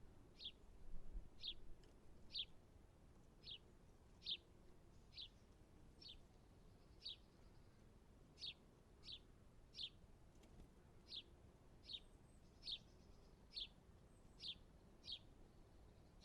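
A small bird calling faintly: a single short, high, falling note repeated about once a second, some twenty times.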